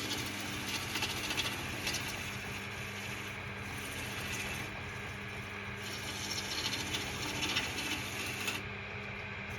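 Wood lathe running with a steady hum while a freshly sharpened spindle gouge cuts the spinning wood, the shavings hissing off in several spells.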